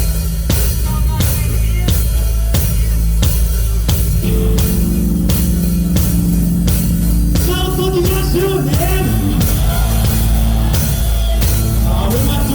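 Live rock band playing: drum kit keeping a steady beat under bass and electric guitars. A wavering, bending melody line comes in over it in the second half.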